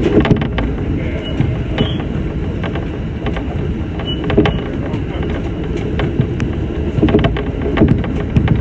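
Electric local train running along the track, heard from inside the front of the car: a steady low rumble of wheels and running gear with frequent sharp clicks and knocks from the rails.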